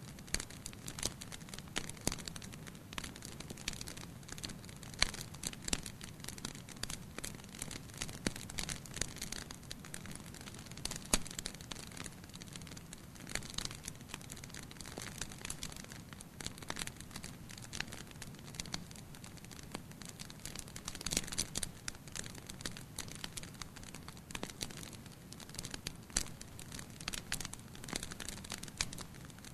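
Wood fire burning in a fireplace, crackling with frequent small pops and snaps over a steady low hiss.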